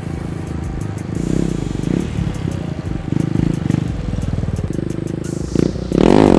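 Motorcycle engine running and revving up and down, with a louder rev climbing in pitch near the end.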